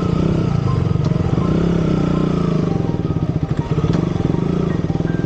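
Motorcycle engine running steadily at low, even revs, a dense pulsing drone.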